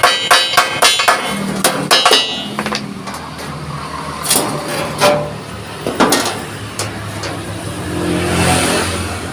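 Hammer blows on steel plate, about three a second with a metallic ring for the first two seconds, then a few scattered knocks, over a steady low hum.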